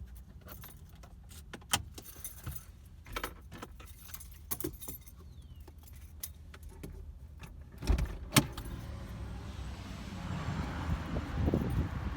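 Clicks and rustling of someone climbing out of a parked car, then two loud knocks about eight seconds in as the car door is opened and shut, followed by a steady outdoor hiss of traffic and air.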